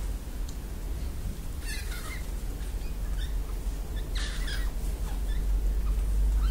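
Pet parrot giving short squeaky calls, once about two seconds in and again a little past four seconds, with a few fainter chirps, over a steady low rumble.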